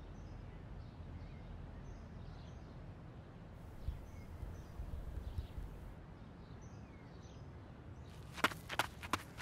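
Faint bird chirps now and then over a low outdoor rumble. About a second before the end comes a quick run of sharp crackles and snaps as someone pushes out through shrubs.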